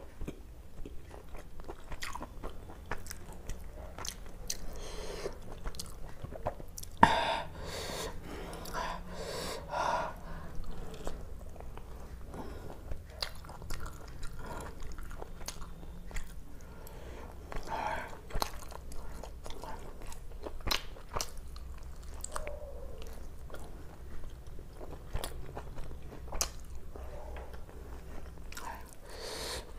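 A person chewing and biting food close to the microphone: wet mouth sounds with many small clicks, and one sharp click about seven seconds in.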